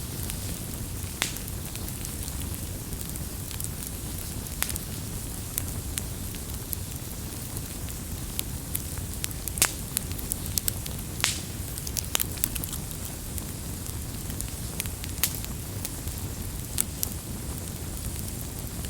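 Open wood fire crackling: a steady low rush of burning with scattered sharp pops and snaps, the loudest about halfway through and a small cluster just after it.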